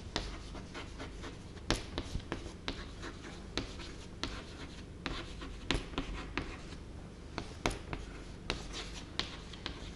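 Handwriting on a board: irregular short scratching strokes and taps as an answer is written out.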